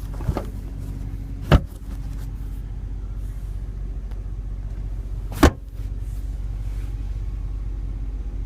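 Two sharp clacks about four seconds apart, from the rear seatback's latch being released and the split-folding seatback being moved, over a steady low hum inside the car's cabin.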